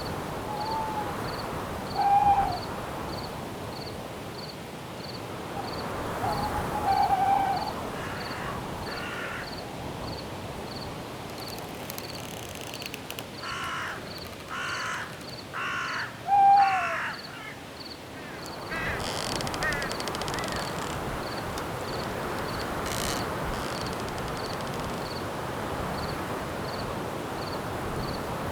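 Night forest ambience: a steady hiss of wind in the trees under crickets chirping evenly about twice a second. Short owl hoots come several times, and a run of four harsh bird calls comes about halfway through.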